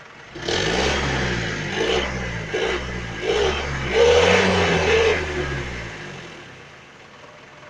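Engine revved through a deep-sounding aftermarket 'guk guk' exhaust: the engine is blipped up and down about four times, then drops back to a low idle about six seconds in.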